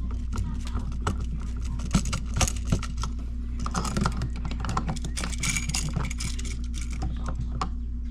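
Irregular small clicks, taps and rattles of hands and tools working wires into an electrical outlet receptacle, over a steady low hum.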